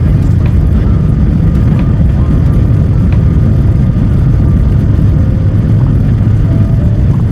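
Airliner cabin noise: a loud, steady, low rumble of jet engines and airflow, heard from inside the passenger cabin.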